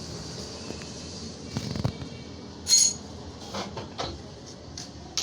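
Scattered knocks and clinks of metal over steady background noise. The loudest is a short ringing clink about two and a half seconds in, after a low thud a little earlier.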